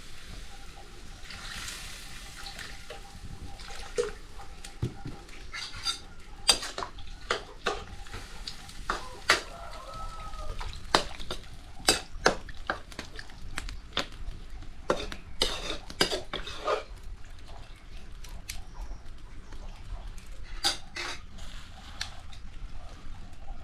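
Cooking pots and utensils clattering and clinking: irregular sharp knocks scattered throughout, some ringing briefly.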